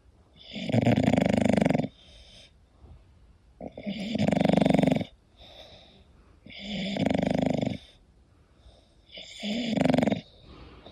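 English bulldog snoring in its sleep: four long snores, each lasting a second or more and coming about three seconds apart, with quieter breaths between them.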